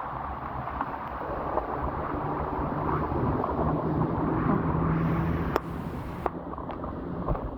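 Wind buffeting the microphone over the rumble of a moving electric scooter, with a low steady hum that swells toward the middle and two sharp clicks about five and a half and six seconds in.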